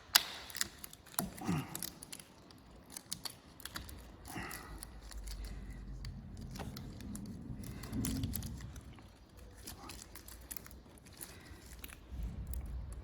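Scattered small clicks and taps with some rustling: hand handling noises on a workbench, with a soft low rumble in the middle.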